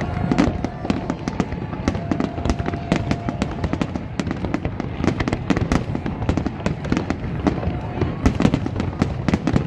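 Aerial fireworks display going off continuously: a dense run of bangs and crackles, several each second, over a low rumble.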